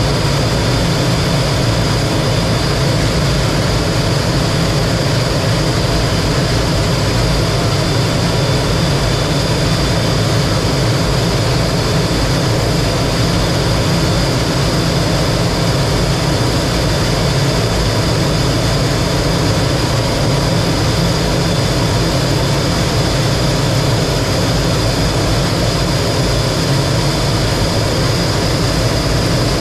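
Single-turbojet engine and airflow of a T-33 jet trainer in cruising flight, heard from inside the cockpit: a loud, steady drone with a constant high whine over it.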